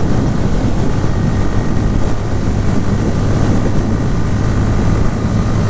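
Bajaj Pulsar N160's single-cylinder engine and exhaust running in a steady drone while cruising at about 90 km/h, mixed with wind rush over the action camera's microphone.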